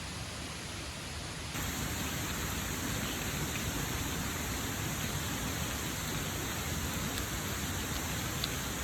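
Steady rain hiss that jumps louder abruptly about one and a half seconds in, with a few faint drop ticks.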